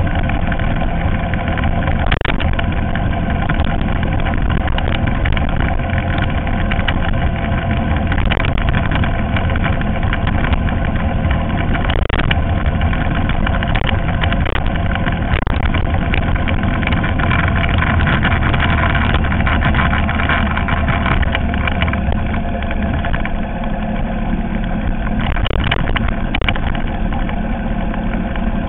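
Ural motorcycle's flat-twin engine running steadily on the move, with wind buffeting on the microphone; the engine note eases slightly over the last few seconds.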